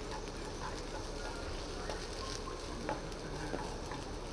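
An egg and hash brown frying in a pan on a camping gas stove, sizzling steadily, with a few light knocks of the spatula against the pan as the food is stirred and mashed.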